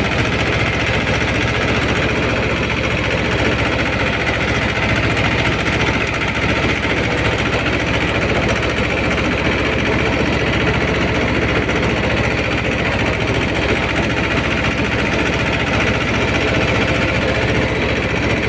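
Mahindra 24 HP mini tractor's diesel engine running steadily with a fast, even knocking pulse.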